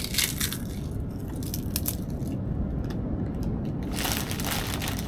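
Potato chips being crushed by hand, crunching and crackling in short spells, densest near the end.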